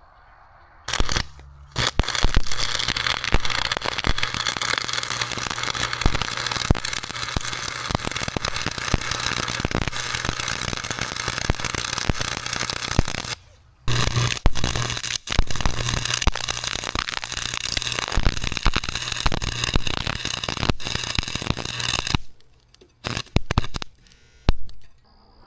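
Arc welding on steel plate: the arc crackles and sputters steadily through two long weld runs, about twelve and eight seconds, with a brief stop between them and a low electrical hum under the arc. A couple of short tack-like bursts follow near the end.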